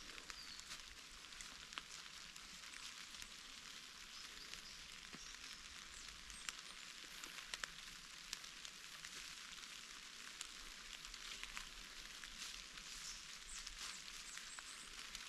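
Light rain pattering on forest leaves: a faint, steady hiss with scattered small ticks.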